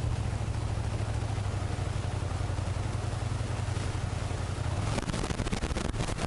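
Motorcycle engine running at low speed with a steady low hum. About five seconds in, the note turns rougher and is broken by short knocks and buffeting.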